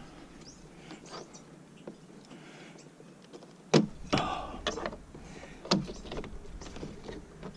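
Hand tools and a truck door's interior parts being handled: scattered light clicks and rustle, with two sharp clacks about four and six seconds in.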